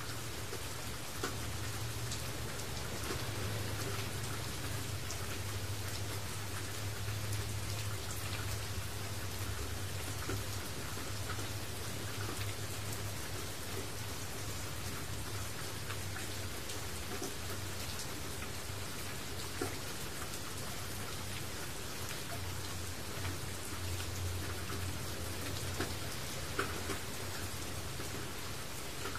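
Steady rain falling on a surface, with scattered individual drops ticking through it. A low rumble runs underneath, swelling and easing.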